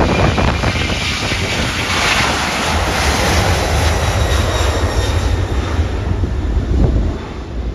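Boeing 767-300 airliner's jet engines at takeoff power, a loud rushing roar over a heavy low rumble of wind buffeting the microphone. The roar swells about two seconds in and drops away near the end.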